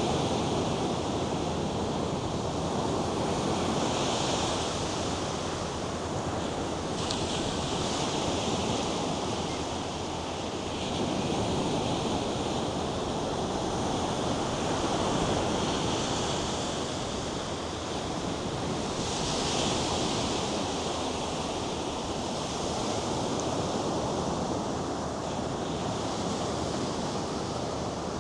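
North Sea surf breaking and washing up a sandy beach: a continuous rush that swells and ebbs every few seconds as waves come in.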